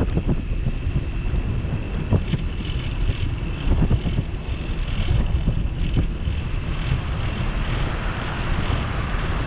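Wind rushing over the microphone and a steady rumble of bicycle riding, with a few faint knocks and rattles from the bike.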